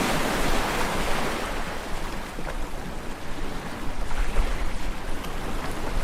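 Wind rushing over a smartphone microphone: a steady hiss with irregular low rumbling gusts that swell and ease.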